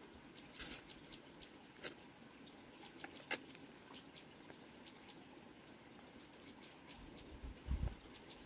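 Faint, high bird-like chirps repeating at irregular intervals, with a few sharp clicks and some low thumps near the end.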